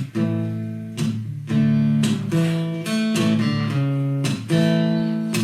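Acoustic guitar strummed in a steady rhythm, with chords ringing between the strokes. It is an instrumental break between sung lines of a live solo song.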